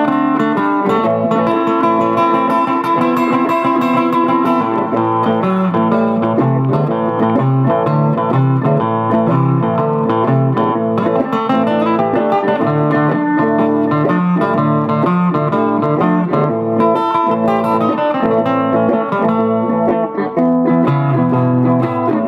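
Blues played on guitar: a continuous run of plucked and strummed notes over a lower bass line, at a steady level.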